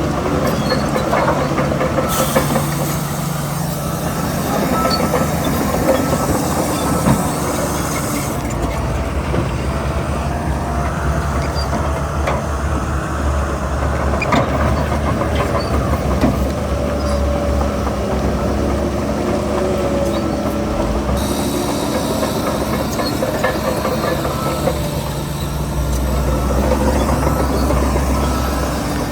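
Heavy diesel earthmoving machinery running steadily under load, with scattered clanks.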